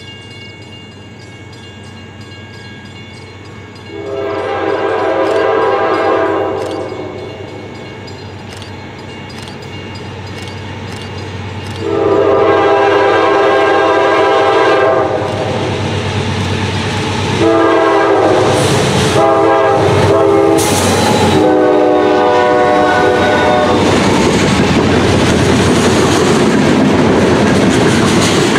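A diesel locomotive's air horn sounds two long blasts and then a run of shorter ones, each louder as the train nears. The train then runs past close by with a heavy rumble and the clickety-clack of wheels over rail joints.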